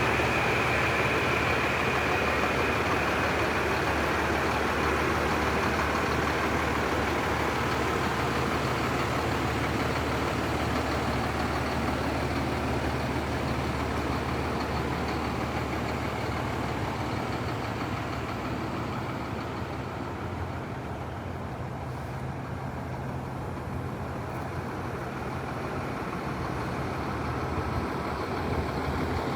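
Sutphen custom pumper fire engine's diesel engine idling steadily, growing somewhat quieter in the middle and louder again near the end.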